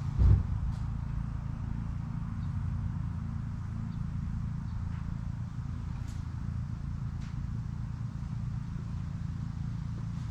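An engine running steadily at idle, with one loud thump about a quarter second in and a few faint ticks.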